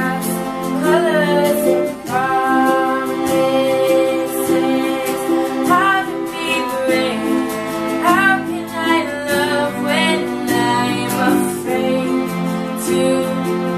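A female voice singing a slow ballad melody over sustained instrumental accompaniment.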